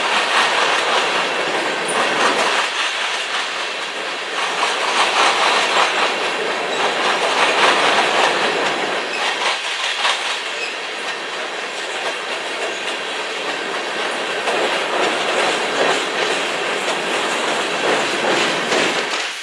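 A loud, continuous rushing noise with a rapid, uneven clatter of clicks running through it.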